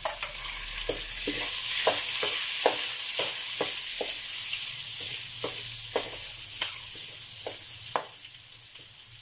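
Carrots, onion and garlic frying in butter and oil in a large metal wok, a steady sizzle, with a spatula scraping and knocking against the wok about twice a second as they are stirred. The sizzle drops off about eight seconds in.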